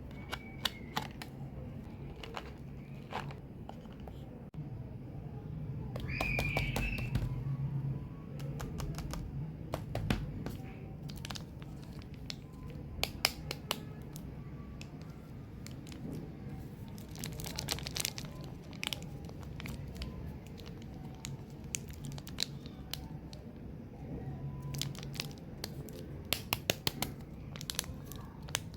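Gum and mint packaging being unwrapped by hand: wrappers crinkling and tearing, with scattered clicks and taps that come in thicker clusters now and then.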